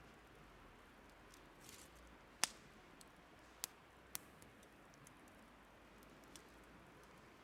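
Wood fire crackling: a few sharp pops, the loudest about two and a half seconds in and two smaller ones over the next two seconds, over a faint steady hiss.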